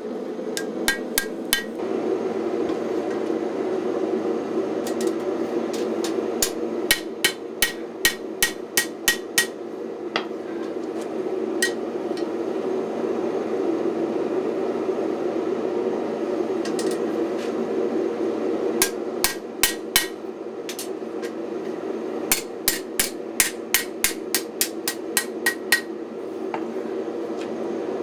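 Hand hammer striking hot 5160 spring steel on an anvil in runs of quick, sharp ringing blows with pauses between them, as a knife blade is forged by hand. A steady roar runs underneath, the sound of the gas forge.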